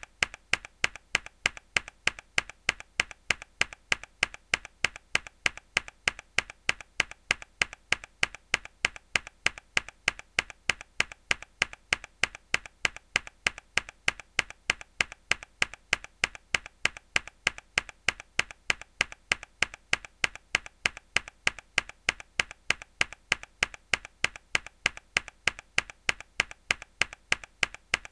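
Mechanical keyboard key pressed hard, over and over at an even pace of about three presses a second; each press is a sharp click followed by a fainter second click.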